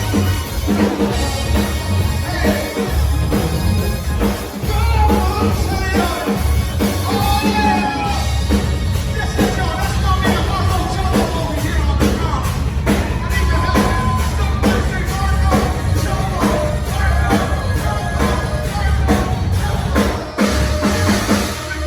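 Live rock band playing, with a singer over electric bass and a drum kit keeping a steady beat.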